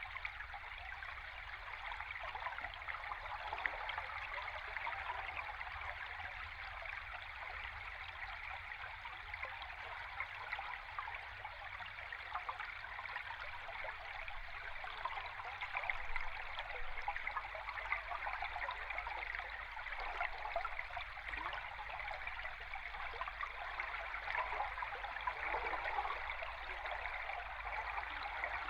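River stream heard underwater: a steady rush of flowing water with a fine crackle, over a low hum.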